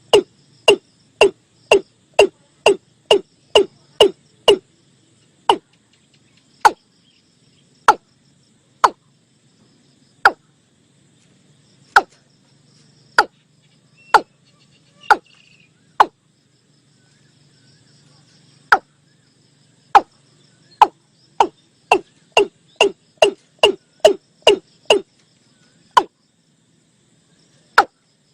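Recorded watercock calls played as a lure: a series of short, sharp knocking notes, about two a second at first, slowing to about one a second, breaking off briefly, then speeding up into a quicker run again.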